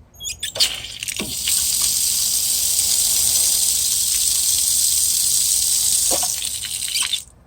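Outside faucet (hose bibb) opened with a brief squeak of the handle, then water gushing out with a loud, steady hiss for about six seconds before it is shut off suddenly near the end.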